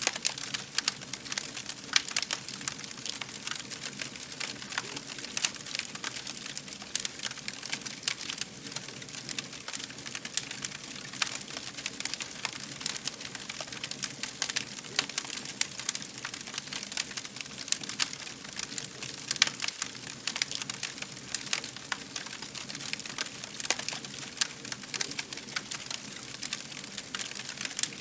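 Fire crackling: a dense run of irregular sharp pops and snaps over a steady soft hiss.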